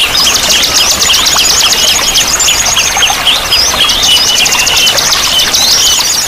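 Many small songbirds chirping and twittering at once in a dense, unbroken chorus of rapid high notes and quick sweeps.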